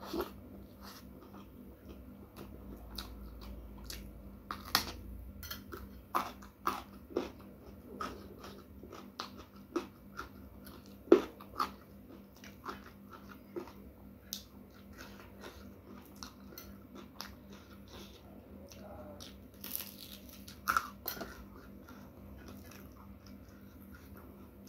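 Close-miked chewing of a rice meal, with irregular sharp crunches and mouth clicks; the loudest crack comes about eleven seconds in.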